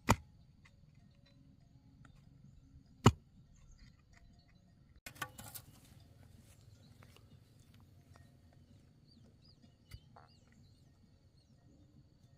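Two loud, sharp knocks about three seconds apart, then a short cluster of lighter knocks and rustling, and a faint knock later on. Faint bird chirps sound in the background.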